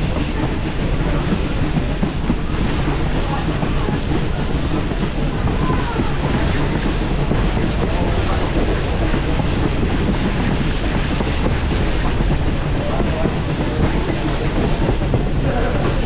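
Passenger train rolling along the track, heard from on board: a steady rumble and rattle from the wheels and the car.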